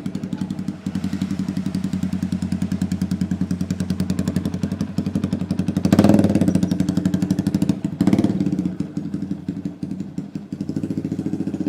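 Yamaha Vixion Lightning Advance's single-cylinder engine idling with an even, pulsing beat through a Daytona GP Taper Short aftermarket exhaust, with two throttle blips about six and eight seconds in.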